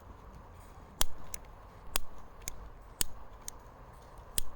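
Gas lighter being struck over and over, sharp clicks about once a second, without catching: the lighter's gas is too cold to light in the frost.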